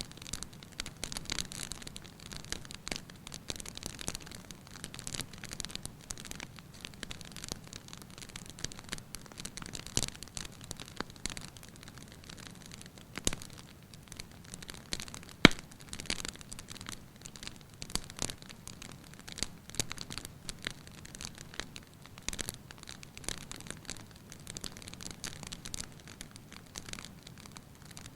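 Wood fire burning in a fireplace, crackling steadily with many small snaps; one sharp, louder pop about halfway through.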